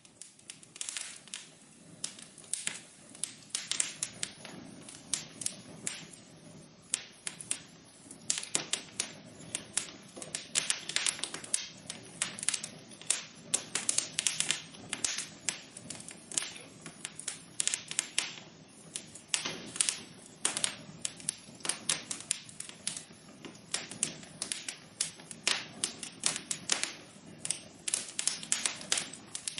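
Wood fire crackling in a fireplace: many irregular sharp pops and snaps, several a second, over a soft low rush of burning.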